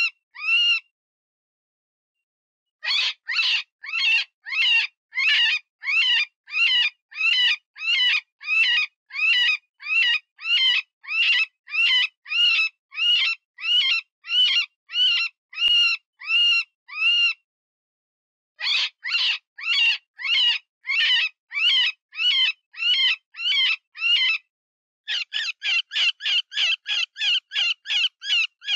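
Cottontail rabbit distress cries, the wounded-rabbit squeal used as a predator call: a long run of short, high, wavering squeals at about two a second. The run breaks off briefly near the start and twice more. In the last few seconds the squeals come faster and closer together.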